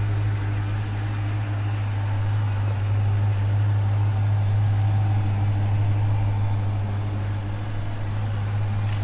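Dodge Challenger SRT Hellcat's supercharged 6.2-litre HEMI V8 idling steadily.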